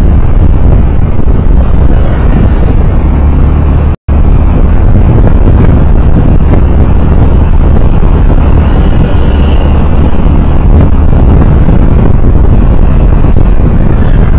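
Loud, steady rumble of a vehicle moving along the road, heavy in the low end, with road and wind noise on the onboard recorder's microphone. The sound cuts out completely for a split second about four seconds in.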